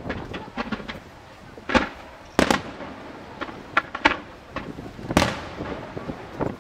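Aerial fireworks display: shells bursting in a string of sharp bangs at irregular intervals, each trailing off briefly, with smaller cracks in between.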